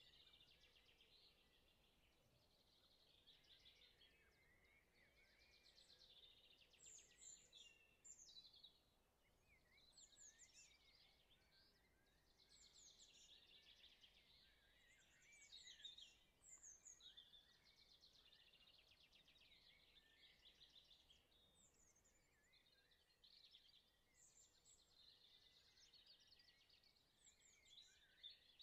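Faint birdsong: small birds chirping and singing rapid trills over one another, with short high whistled notes, continuing without a break.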